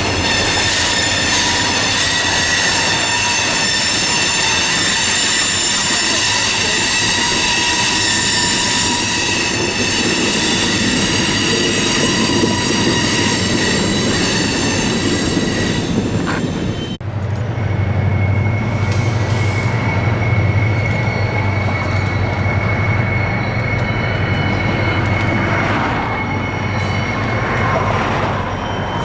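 Train rolling past with its steel wheels squealing in many high, steady tones. About seventeen seconds in the sound changes abruptly to a deep rumble with a single thin, steady whine above it.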